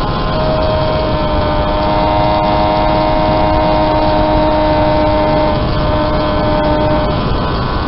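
Home-built three-cylinder engine of a 195cc Gillette special racing motorcycle running hard under load on track, holding steady revs for several seconds, with the note changing near the end.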